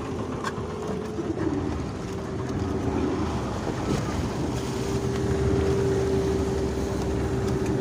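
Boat engine running steadily under way, with one held tone over a low rumble that grows a little louder about halfway through. Wind buffets the microphone.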